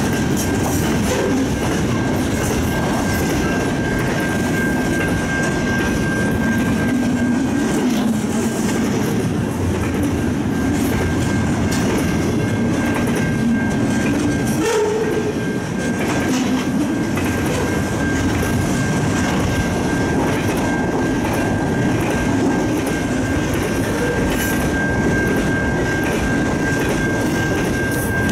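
Double-stack intermodal container cars of a CN freight train rolling past: a steady rumble with the clickety-clack of wheels over rail joints. A thin steady high tone runs throughout.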